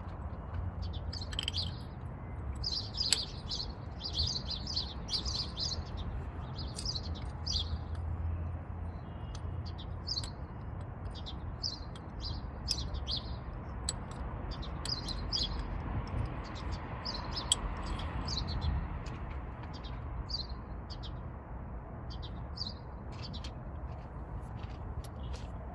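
Small birds chirping in quick repeated bursts over a steady low hum, with a couple of sharp clicks.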